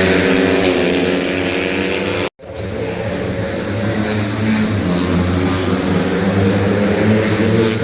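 Racing underbone motorcycles running at high revs, a loud pitched engine note. About two seconds in the sound cuts out abruptly, then returns as a lower, more diffuse engine drone.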